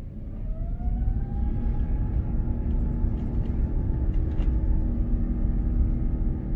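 Airbus A350-900's Rolls-Royce Trent XWB engines spooling up to takeoff thrust, heard from inside the cabin: a whine rising in pitch over the first two seconds, then holding steady over a growing, heavy rumble.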